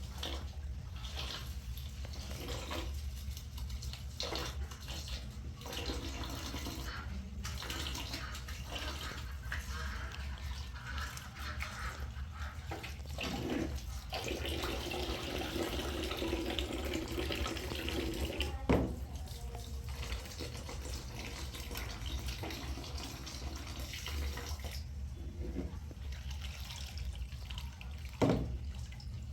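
Water running and splashing unevenly, as in pouring or washing, with two sharp knocks, the louder one about two-thirds of the way through and another near the end.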